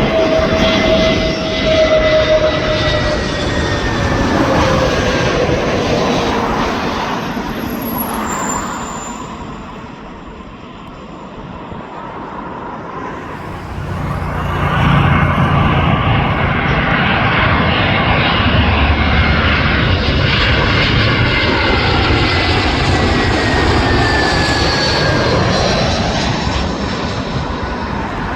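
Jet airliners passing low overhead on final approach to land, two in turn: each runs loud with an engine whine that falls in pitch as it goes by, and the second comes in about halfway through after a brief lull.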